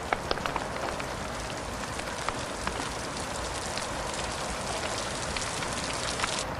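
Steady rain hiss with scattered sharp crackles and pops, a crackling fire and rainfall mixed together. The high part of the hiss drops away near the end.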